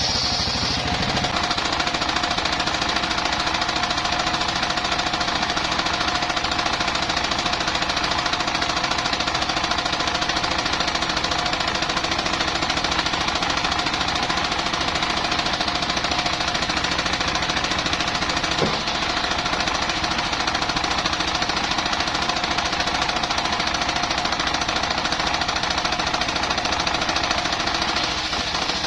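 Mobile circular sawmill running steadily, its engine and spinning blade giving a loud, continuous mechanical noise. A higher hiss dies away about a second in.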